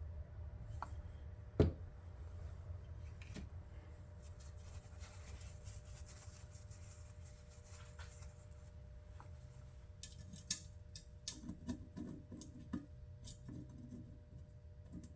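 Small clicks and taps of a screwdriver and case parts being handled while screws are driven in, with one sharp knock about one and a half seconds in and a run of quick little clicks near the end, over a low steady hum.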